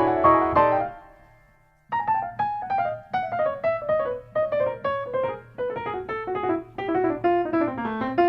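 Solo piano music: a few chords that die away, a short pause, then a steady run of single notes with a slowly falling melody.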